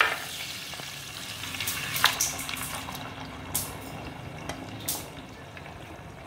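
Marinated mutton with onions and tomatoes poured into hot oil in a black clay pot, sizzling loudly at first and then frying steadily. A few sharp knocks of the spoon against the pot come as it is stirred.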